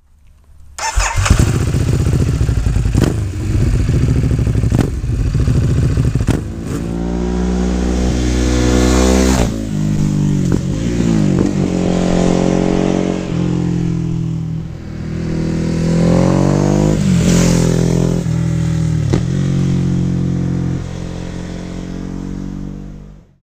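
Ducati Hypermotard 821's V-twin running through an Akrapovic exhaust: a few sharp cracks in the first several seconds, then the engine revving, its pitch climbing and dropping back several times as it pulls through the gears, until the sound cuts off abruptly near the end.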